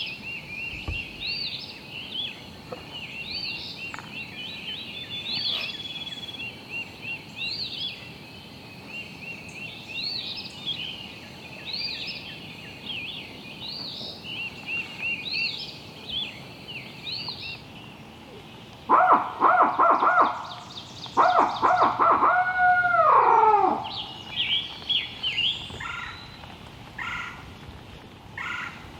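A songbird sings repeated short, high rising-and-falling chirps. About two-thirds through, a wild turkey gobbler gobbles loudly twice, a rapid rattling series, the second gobble trailing off in falling notes.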